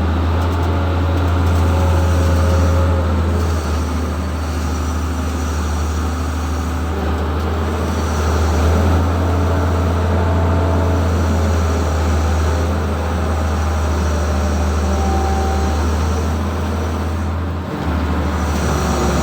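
An engine running with a steady low rumble under the even hiss of heavy rain. The rumble dips briefly near the end.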